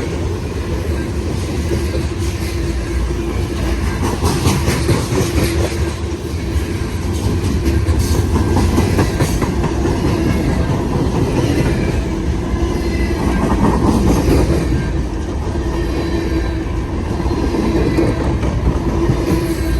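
Freight cars of a long mixed freight train rolling past at close range: a steady heavy rumble, with wheels clattering over rail joints.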